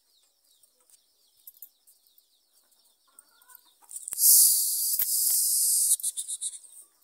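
Chickens in a farmyard: faint high peeping and a soft hen call. About four seconds in, a loud high hiss starts and lasts about two seconds before cutting off.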